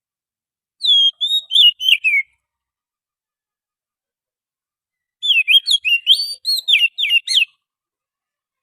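Oriental magpie-robin singing: two phrases of quick, varied whistled notes, the first about a second in and the second, longer one about five seconds in, with a pause between.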